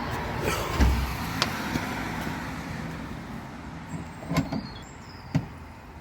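A road vehicle passing by, its noise fading away over the first few seconds. Several sharp metallic clicks and knocks are heard, one about a second in and others near the end.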